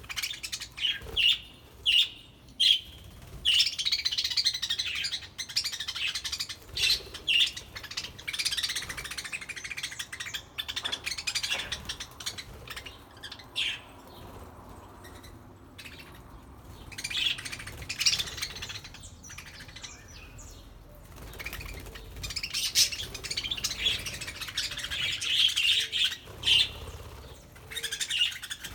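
Flock of budgerigars chirping and chattering: a few sharp separate chirps at first, then long stretches of busy, continuous warbling chatter with quieter gaps between.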